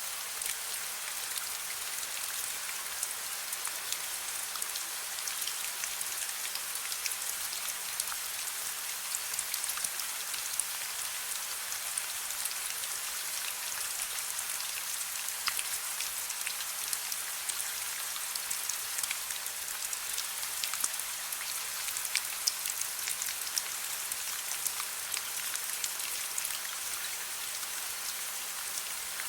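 Steady soft rain: an even hiss sprinkled with many small, sharp drop ticks.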